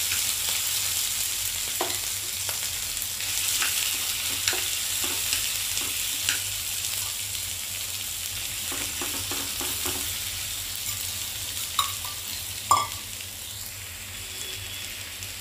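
Masala-coated prawns sizzling in hot oil in a non-stick frying pan, the sizzle easing slightly as they cook. A spoon taps and scrapes against the pan now and then as they are stirred, with the sharpest clinks near the end.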